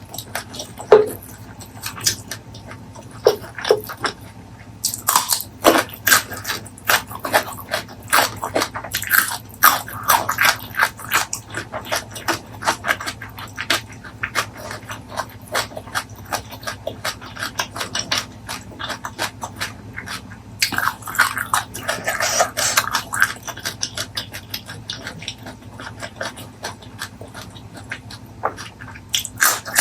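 Close-miked eating sounds: rapid clicks of chewing and lip smacking, sparse at first and much denser from about five seconds in.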